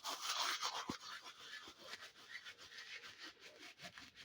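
Hands mixing dry semolina with salt and thyme in a bowl for harcha dough: a gritty rubbing and rustling of the grains, loudest in the first second, then steadier with small scratchy ticks.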